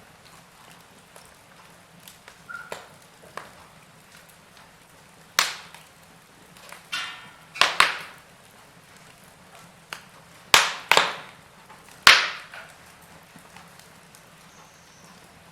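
Wood fire in a fireplace crackling, with a low steady hiss and irregular sharp pops, the loudest about 5, 8, 10 to 11 and 12 seconds in.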